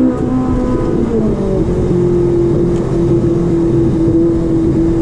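Ferrari 458 Italia's 4.5-litre V8 heard from inside the cabin under way. The revs are climbing at the start, the pitch steps about a second and a half in, and then the engine runs at one steady pitch.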